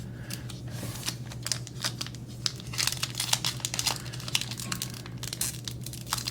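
Foil wrapper of a Disney Lorcana booster pack crinkling and being torn open by hand, a continuous run of small crackles.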